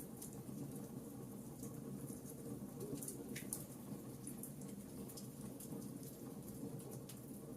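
Wood fire in a fireplace crackling, with scattered small sharp pops over a low steady rumble of burning, and one louder pop about three seconds in.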